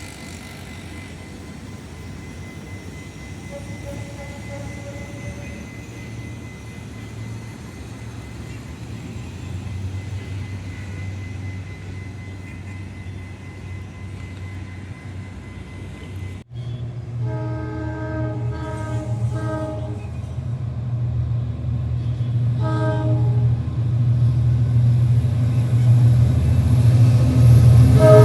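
A GE diesel-electric locomotive approaches, its engine drone growing steadily louder. A little past halfway its horn sounds three short blasts, then another about five seconds later. A louder, longer horn blast starts at the very end.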